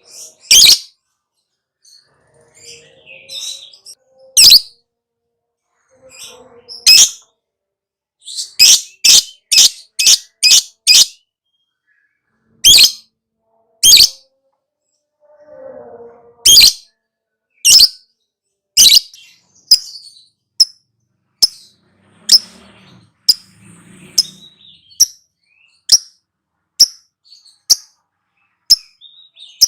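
Lovebird giving loud, sharp, shrill chirps, first singly and in a quick run of about six, then shorter chirps about two a second in the second half.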